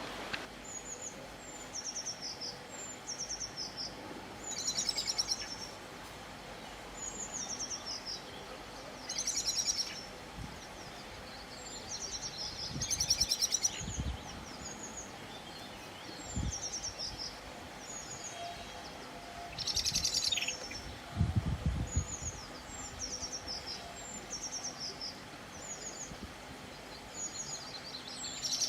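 Songbirds singing outdoors: short, high chirping phrases repeated every second or so, with a few brief trills. A few faint low thumps come in the middle.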